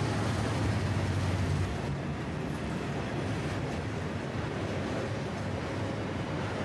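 Rumo diesel freight train running: a steady low rumble with a hum. About two seconds in, the hum and a faint high whine drop away, leaving a quieter, thinner rumble.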